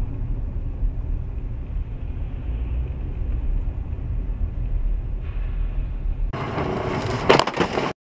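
Low, steady road and engine rumble of a moving car, as picked up by a dashcam. About six seconds in it gives way to a harsher, wider noise with a sharp bang a second later, then cuts off suddenly.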